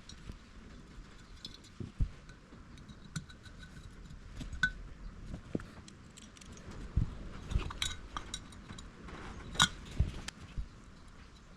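Small metal parts and hand tools clinking and tapping at irregular moments, with a few dull knocks.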